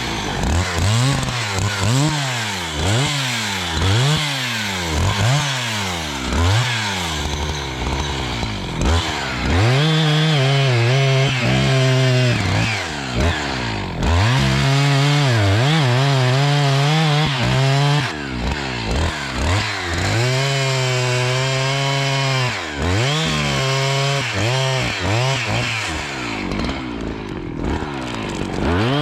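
Two-stroke chainsaw revved up and down about once a second, then held at high revs in stretches of three to four seconds, its pitch wavering and dipping under load as it cuts wood, with short drops to idle in between.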